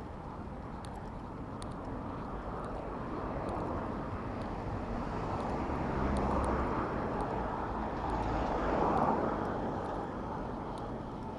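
Road traffic heard from a moving bicycle: a steady rush of noise with vehicle engines passing, swelling about six and again about nine seconds in.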